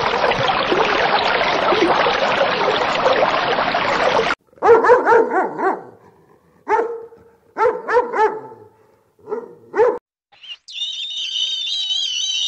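A steady rushing noise for the first four seconds. It is followed by a dog barking in five or six short calls, and then by high, wavering bird calls near the end.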